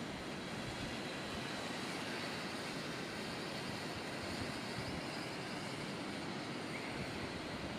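Strong, gusty wind rushing over the microphone as a steady noise.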